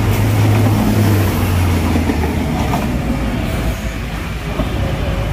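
Diesel commuter train running past at close range and pulling away, its low engine hum strong at first and fading after about two seconds, over the rumble of the cars on the track.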